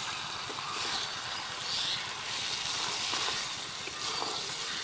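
Chicken pieces in masala and oil sizzling in a large metal pan while a spatula stirs them, a steady hiss.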